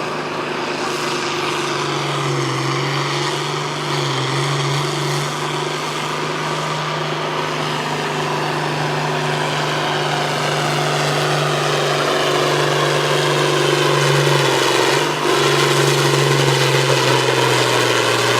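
Diesel farm tractor engine in a stock tractor pull, running hard under heavy load as it drags the sled. It holds a steady note that slowly grows louder and drops in pitch near the end as the engine lugs down.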